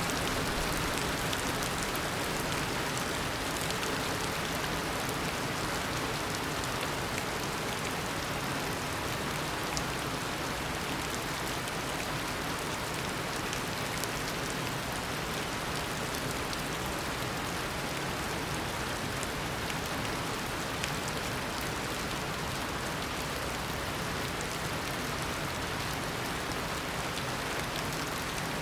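Steady heavy tropical rain, a downpour pattering on leaves and surfaces with scattered individual drop ticks.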